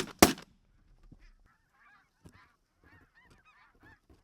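The last blast of a shotgun volley just as it begins, then a flock of snow geese calling overhead, faint high honks overlapping one another.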